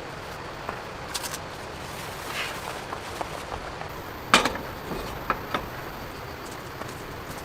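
A few sharp knocks and clicks over a steady hiss, the loudest knock about four and a half seconds in, followed by two smaller ones about a second later.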